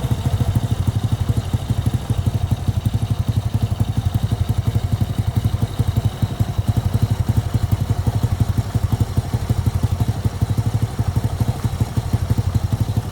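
Motorcycle engine idling steadily, with a fast, even beat of exhaust pulses.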